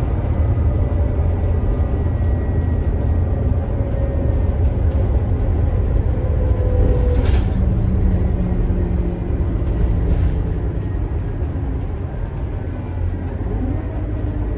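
The Scania K280IB bus's five-cylinder DC9 turbo diesel drivetrain running steadily under way, with a low rumble and shifting tones as it drives. Two short hisses come about seven and ten seconds in.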